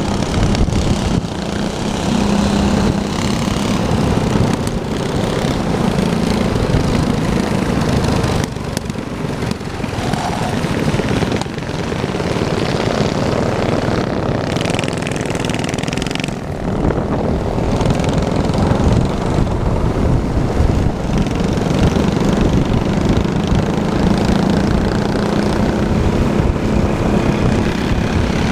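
Small minibike engines running, a loud steady buzz.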